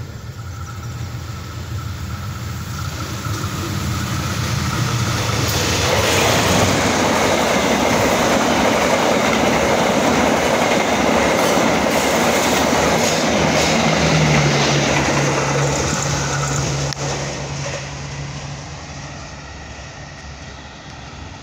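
Locomotive-hauled passenger train passing close by. A low hum builds as it approaches, then the rumble and clatter of coach wheels over the rails peaks as the coaches go past. It fades as the train moves off near the end.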